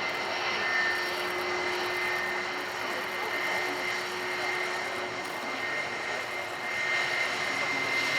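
Airbus A320 jet engines running: a steady rush of engine noise with a high steady whine.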